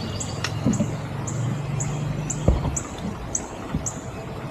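A bird repeating a short, very high, thin note about twice a second, with a couple of soft knocks from handling or footsteps.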